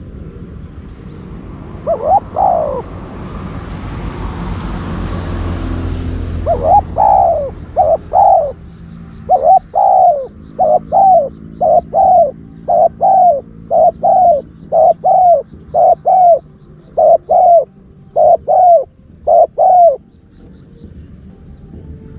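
Spotted dove cooing: a pair of short coos, then a long run of short coo notes, about two a second, from about seven seconds in. A swell of rushing noise comes and goes underneath in between.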